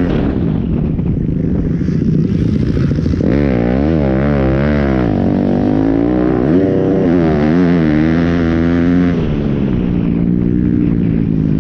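Pit bike engine revving, its pitch climbing and falling several times as the rider opens and closes the throttle.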